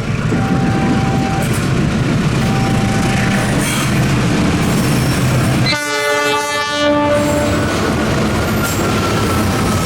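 Train passing on the rails with a steady rumble and clatter of wheels. About six seconds in, a locomotive horn sounds for about two seconds.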